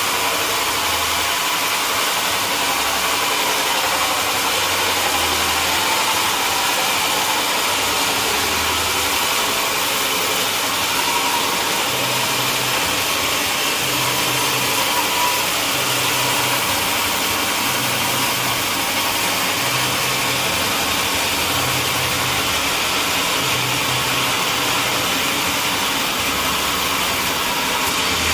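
Sawmill machinery running steadily, a constant engine-like drone with an even hiss.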